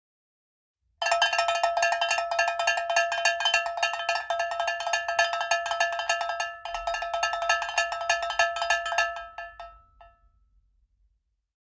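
A metal bell rung with very rapid, continuous strikes over steady ringing pitches, for about eight seconds with a brief break partway, then dying away.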